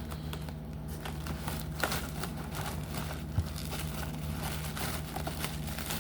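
Rummaging through a box of packaged diecast toy cars: cardboard and plastic packaging rustling and crinkling, with a few light knocks, over a steady low hum.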